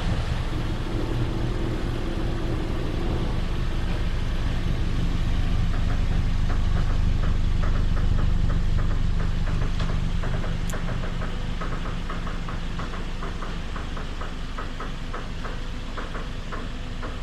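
2015 Toyota Altis 1.8-litre four-cylinder engine idling through an aftermarket single-canister, single-outlet muffler with a hidden tailpipe tip. The exhaust note is steady, getting a little louder around the middle and then settling back.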